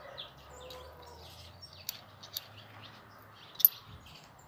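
Small birds chirping repeatedly in the background, with a few light clicks as a hex key and a metal dowel-making jig are handled; the sharpest click comes near the end.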